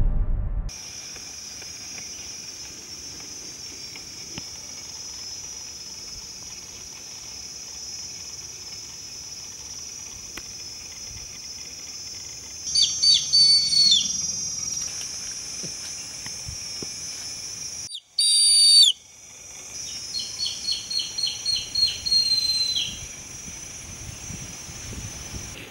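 Forest birds calling over a steady high-pitched background drone: a few descending whistled notes about halfway in, a short loud call a few seconds later, then a run of about nine quick repeated whistled notes.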